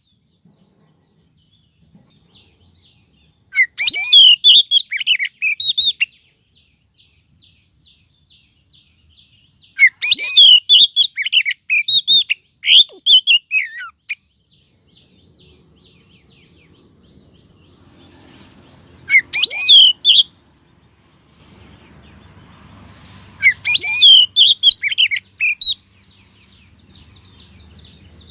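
Female oriental magpie-robin (kacer) calling: four bursts of rapid, high chirping notes a few seconds apart, with faint quick ticking notes between them. This is the female call used to lure male magpie-robins.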